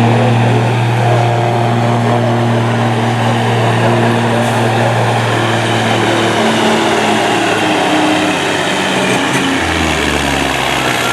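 Semi truck's diesel engine running loud and steady, its note dropping lower after about six seconds and dropping again near the end.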